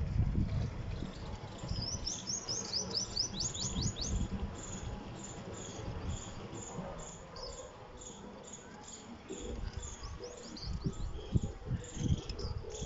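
Small birds chirping: a quick run of high chirps, about six a second, starting about two seconds in, and a shorter run near the end. Low rustling and knocks sound beneath them.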